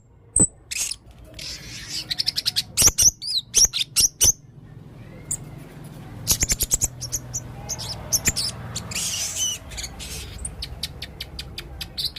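Male blue-crowned hanging parrot singing: repeated bursts of rapid, high-pitched chirps and short trills with brief pauses between them.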